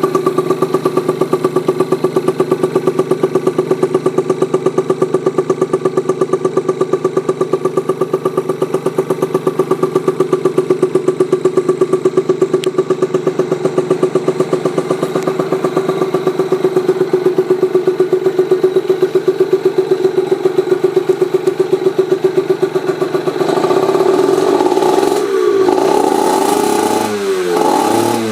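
Yamaha TZR50R's 50cc two-stroke single running through an aftermarket expansion-chamber exhaust, idling with a steady, rapid pulsing note. Near the end the throttle is blipped a few times, and the pitch rises and falls with each rev.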